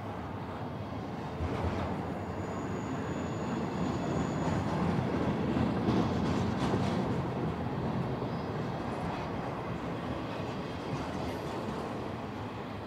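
Freight train of double-stack container cars and trailer flatcars rolling past: a steady rumble of steel wheels on rail that swells toward the middle, with some knocks from the wheels. A thin high squeal, likely wheel flanges on the curve, sounds from about two seconds in for a couple of seconds.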